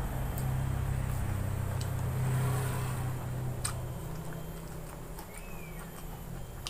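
Person chewing a mouthful of rice and vegetables eaten by hand, with a few sharp clicks. A low steady engine drone runs underneath and fades away about four seconds in.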